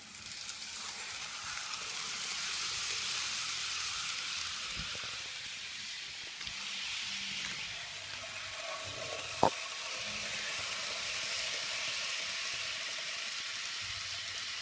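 KATO model steam passenger train running on its track: a steady, high-pitched whirring hiss of the small motor and wheels, growing louder over the first couple of seconds. One sharp click about nine and a half seconds in.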